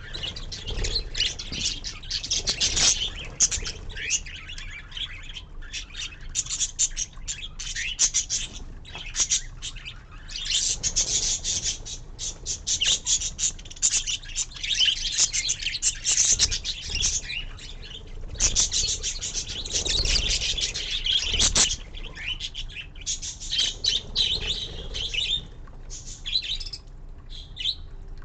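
Budgerigars chattering and chirping continuously, a busy stream of short warbling calls with brief pauses.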